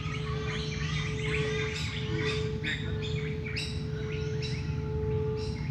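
Dawn chorus of many wild birds chirping and trilling over each other, above a soft, steady singing-bowl hum.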